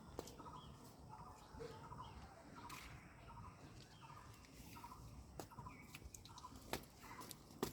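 Faint animal calls, short and repeated about every half second, with scattered sharp clicks.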